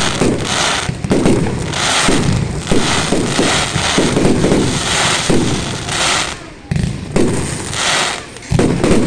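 Fireworks display: a rapid, loud series of bangs, one to two a second, each trailed by crackling from the bursting shells.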